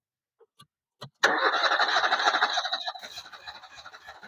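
A Fiat Punto's four-cylinder FIRE petrol engine being cranked on the starter motor for a fuel-injector discharge test. The sound starts suddenly with a click about a second in, runs as a fast, even mechanical rattle and whirr, and fades steadily over the next few seconds.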